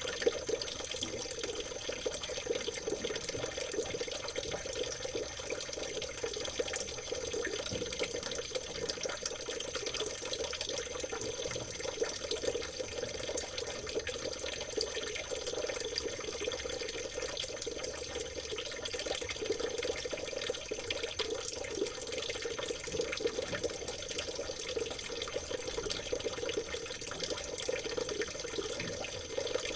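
Water trickling and babbling over stones in a small stream, a steady, unbroken splashing.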